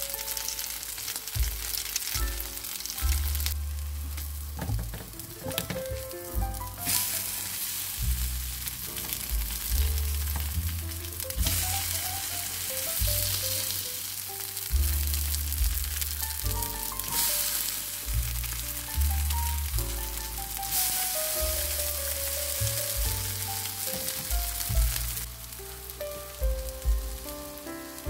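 Grated potato, egg and mozzarella patties sizzling as they fry in olive oil in a pan, the hiss swelling louder in several stretches. Background music with a melody and bass notes plays over it.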